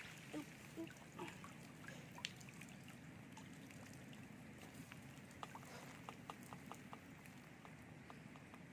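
Faint dripping and trickling of water running off a fishing lift net as it is raised, with a quick run of small drips about five to seven seconds in.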